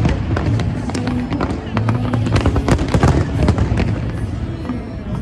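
Fireworks display: a dense run of bangs and crackling pops, over music with a steady beat and crowd voices.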